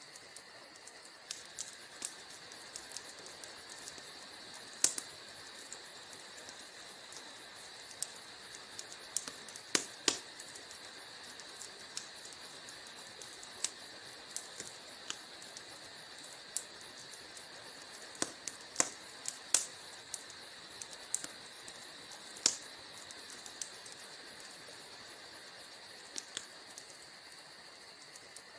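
Wood fire crackling: irregular sharp pops and snaps over a steady hiss, with a handful of louder pops scattered through.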